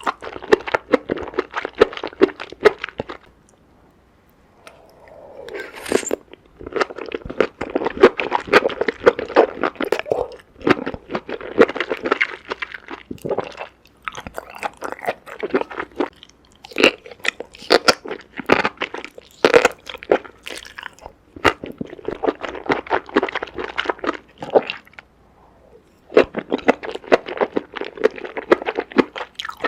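Close-miked ASMR eating of crunchy food: bites and crunchy chewing in runs of dense crackles, with a few short pauses.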